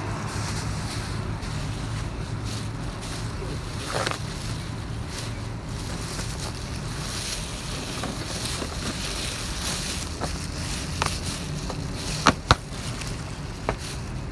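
A steady low hum runs throughout, with a takeout food container being handled over it: a soft rustle about four seconds in and a few sharp clicks and taps near the end.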